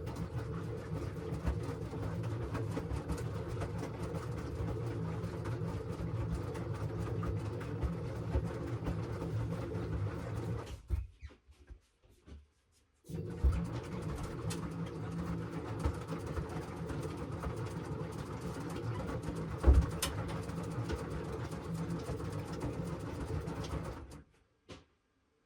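LG washing machine running, its drum motor giving a steady hum with a few knocks. It stops for about two seconds midway and stops again near the end.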